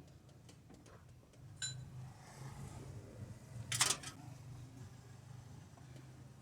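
Workshop work on a van's underchassis: a steady low hum, one ringing metallic clink of a tool on metal, then a short sharp noisy burst a little more than halfway through.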